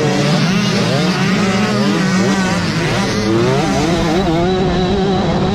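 Several motocross bikes racing, their engines revving up and down over one another.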